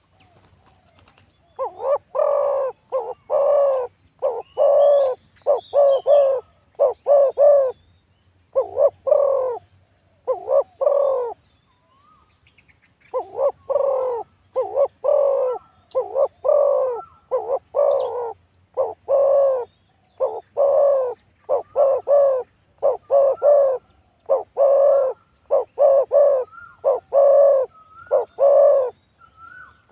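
Spotted doves cooing: a long run of short, repeated low coos in quick phrases, with a pause about halfway through. Faint high chirps of small birds sound above.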